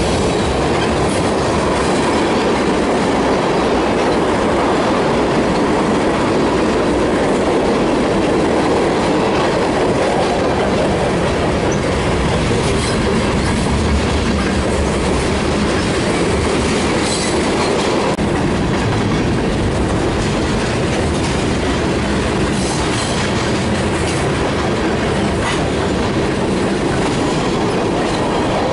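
Freight train's tank cars and covered hopper cars rolling past, a steady noise of steel wheels on the rails.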